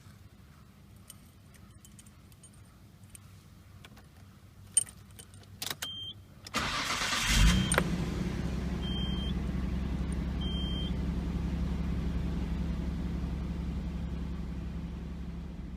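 Key clicks and rattles, then the starter cranks for about a second and the Nissan Skyline GT-R R32's twin-turbo straight-six catches and settles into a steady idle. Two short high beeps sound a few seconds after the start.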